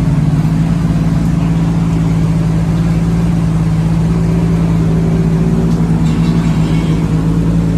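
Drift car engine idling steadily at a constant pitch, with no revving.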